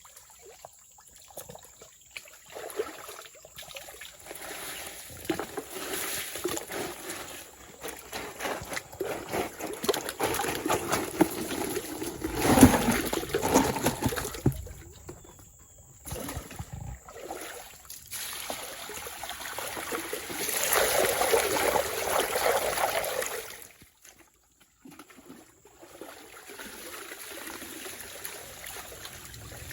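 Water splashing and trickling in uneven surges, loudest about twelve seconds in and again for a couple of seconds past the twenty-second mark.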